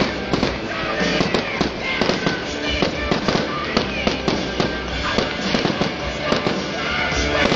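Fireworks going off in a dense, continuous crackle of many quick bangs and pops, several every second.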